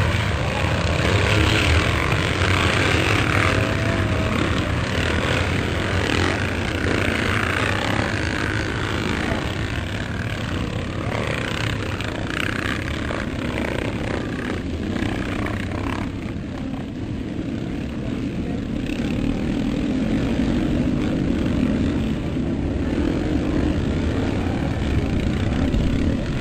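Motocross motorcycles racing, several engines revving and droning as the bikes go round the track. In the later part one steadier engine drone is the loudest thing.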